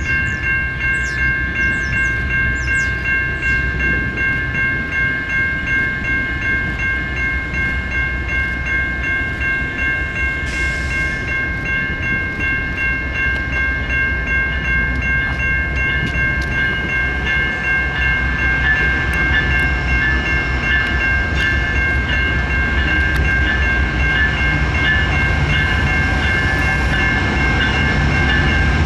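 Canadian National freight train rolling by, its wheels beating a steady rhythm over the rails. Several steady high ringing tones sound throughout, and the train grows slightly louder toward the end.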